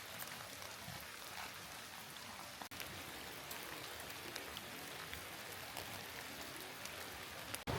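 Steady rain falling, with many individual drops ticking close by over a soft even hiss.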